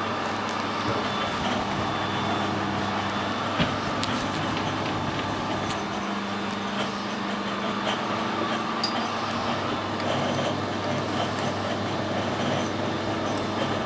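A workshop machine's electric motor running with a steady hum, with a few light metallic clicks over it.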